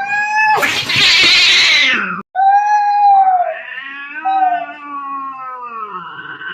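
Cats fighting: long, wavering yowls, broken about a second in by a loud hissing burst that cuts off sharply, then more yowling that slides down in pitch near the end, with two voices overlapping.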